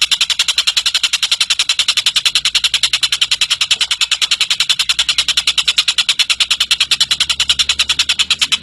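Tengek cililin bird giving a long, unbroken run of rapid, evenly spaced high notes, about ten a second.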